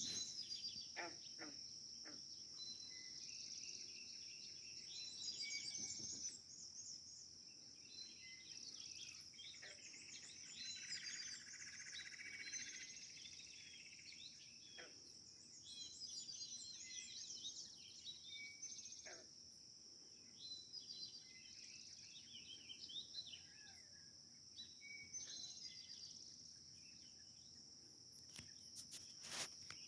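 Birds chirping and singing at a pond and a frog calling, over a steady high-pitched insect trill. A few sharp clicks come near the end.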